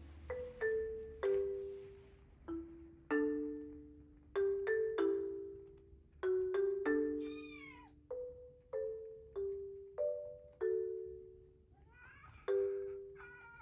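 A cat meowing a few times over light marimba-like background music: one falling call a little past the middle, then more calls near the end.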